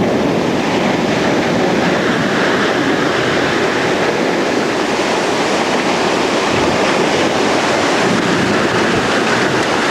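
Violent tornado wind at close range: a loud, steady rushing roar that begins abruptly and holds at an even level without a break.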